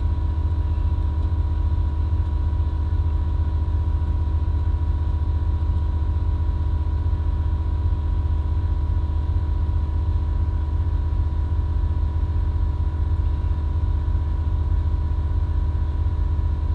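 Two Airlift Performance air-suspension compressors running together, a steady drone with a fast fine flutter, as they pump the air tank back up while the bags are aired up.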